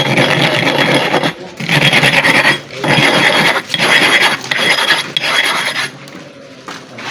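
Sharpening stone being flattened by hand, its face rubbed back and forth against an abrasive surface: a gritty rasping scrape in about five strokes of roughly a second each, stopping near the end.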